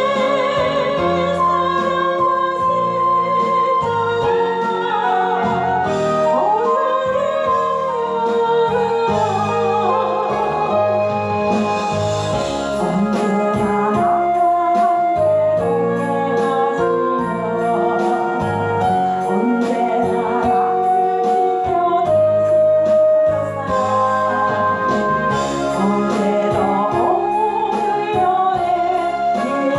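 Gospel praise song: a solo voice sings long held notes with vibrato over an instrumental backing track with a steady beat.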